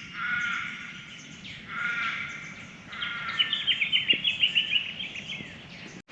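Wild birds calling: two drawn-out calls about a second and a half apart, then a rapid run of high chirping notes from about three seconds in.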